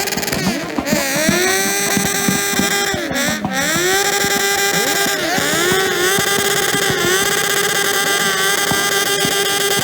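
Several motorcycle engines revved hard and held on the rev limiter at once, overlapping; the revs drop away and climb back to the limiter several times.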